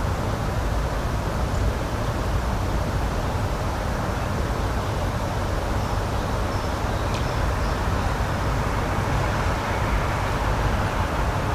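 Steady rushing outdoor background noise, heaviest in the low range, with a faint high chirp and a small click about halfway through.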